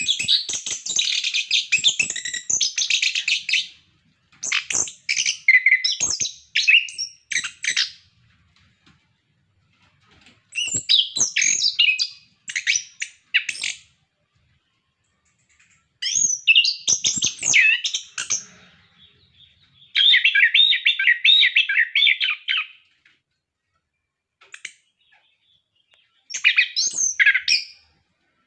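Chestnut-capped thrush (anis kembang) singing: about six rapid, high, warbling and chirping phrases of two to four seconds each, with short pauses between them.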